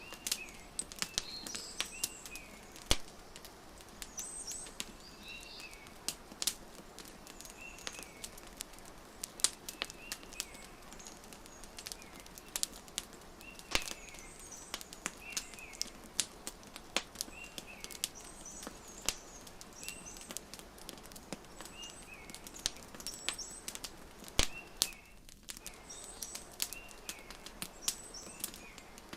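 Wood fire crackling, with frequent sharp pops and snaps over a soft steady hiss, while small birds chirp in short, repeated calls throughout.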